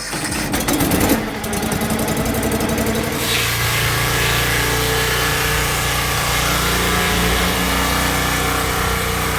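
An engine running steadily, with a fast clattering rattle over the first three seconds that then settles into an even drone.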